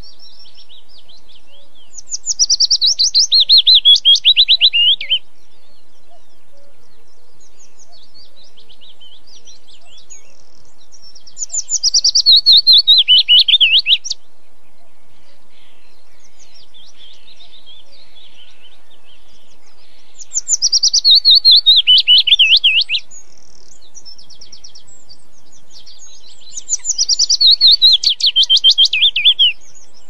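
A bird singing a loud phrase four times, each a quick run of notes falling in pitch over two to three seconds. Fainter chirps from other birds fill the gaps.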